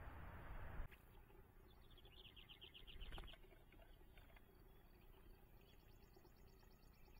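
A short, rapid bird trill of about a dozen high notes, about two seconds in, lasting just over a second. Before it, a steady hiss cuts off suddenly about a second in, and a faint high rhythmic chirring comes in near the end.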